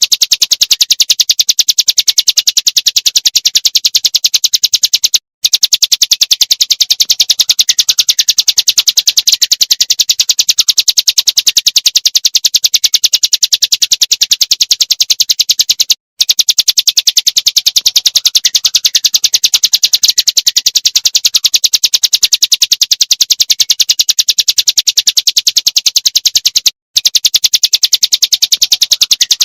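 Small songbird's rapid-fire song, the fast repeated 'tembakan' notes used as masteran for training murai batu and kacer: a fast, even train of high, sharp notes, broken by three very brief silences where the recording loops.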